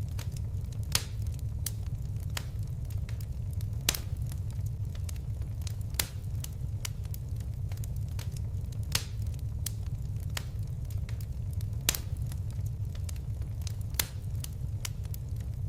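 Fire crackling steadily over a low rumble of flames, with many small clicks and a louder sharp pop every two to three seconds.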